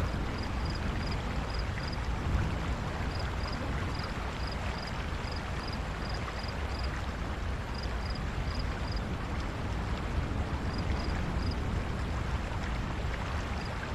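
Steady rushing outdoor ambience, with a faint high chirping that repeats in short groups of two or three.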